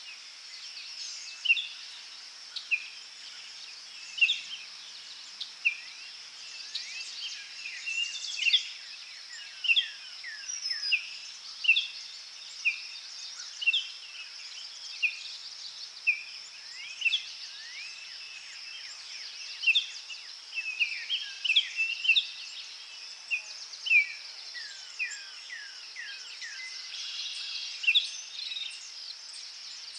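Forest birds calling with many short, quick, falling chirps, one or two a second, over a steady high insect drone.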